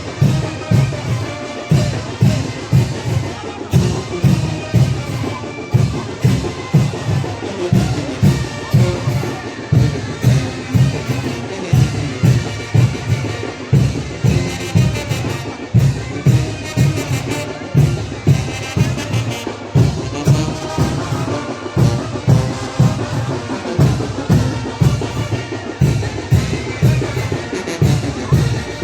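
Mexican wind band (banda de viento) playing chinelo dance music: brass carrying the tune over a steady, driving drum beat.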